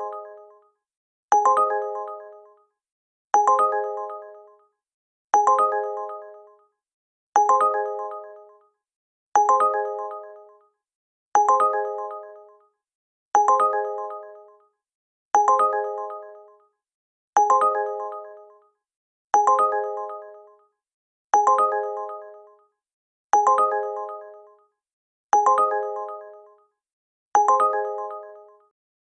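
Electronic bell-like alert chime, such as a phone ringtone or app alert, repeating about every two seconds. Each strike rings with several notes at once and fades out over about a second and a half.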